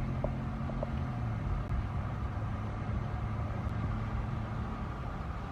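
Car engine humming steadily with road noise while driving, heard from inside the car; the engine note drops a little about a second in.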